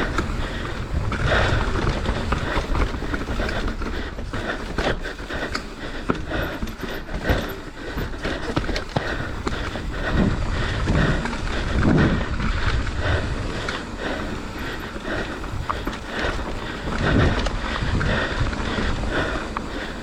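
Mountain bike ridden fast down a dirt trail: wind buffeting the microphone, with tyres crunching over the ground and the bike rattling and knocking over bumps.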